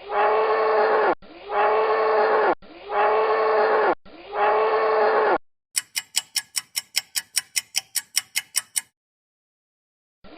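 One recorded animal call played four times in a row, each a pitched call of just over a second. It is followed by a clock ticking quickly for about three seconds, the quiz's countdown before the answer, then silence.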